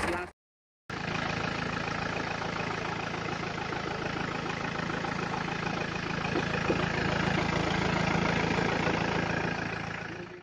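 Isuzu Panther diesel engine idling steadily, after a short cut to silence near the start, and fading out at the end. The engine has heavy crankcase blow-by (ngobos), the sign of a worn engine due for an overhaul.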